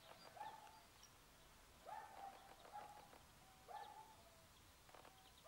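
Faint bird calls: short, clear notes repeated every second or so.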